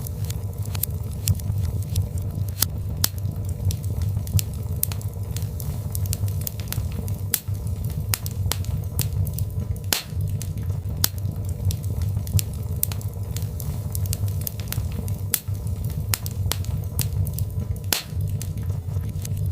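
Birch logs burning in a fireplace, crackling with frequent irregular sharp pops and snaps over a steady low rumble of the fire.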